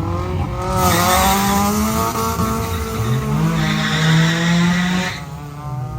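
Car engines revving hard while tyres screech in a hard launch. The screech starts about a second in and cuts off sharply about five seconds in, and a second engine note rises partway through.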